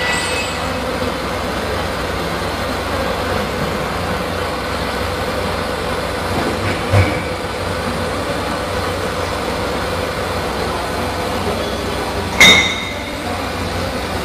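Automatic circular-seam argon arc welding machine running with a steady hum and hiss. There is a brief knock about seven seconds in and a sharp clank about twelve seconds in.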